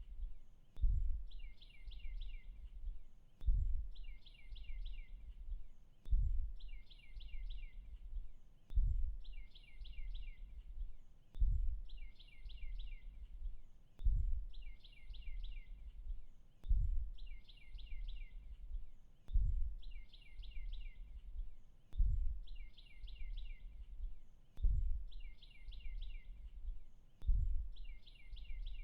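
A bird's short, fast trill of rapid notes, each trill about a second long, repeating at exactly even intervals of about two and a half seconds as a looped nature-sound track, with a low thump at the start of each repeat.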